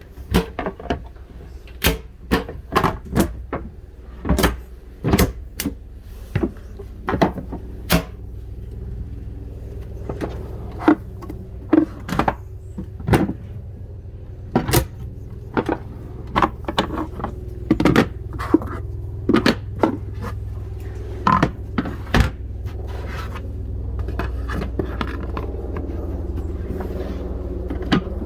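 Irregular knocks, clicks and clunks of bed-platform and storage-box panels being handled and fitted in a van's interior, over a steady low hum.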